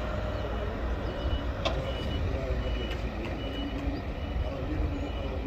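A vehicle's reversing alarm beeping repeatedly, a short high-pitched tone at a steady rate, over a continuous low rumble.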